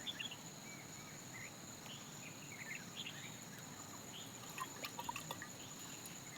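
Crickets trilling steadily on one high note, with scattered short high chirps and a few small clicks.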